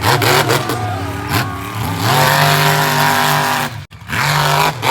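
Monster truck engine revving hard: the pitch climbs, then holds high and steady. It cuts off sharply just under four seconds in, then picks up again.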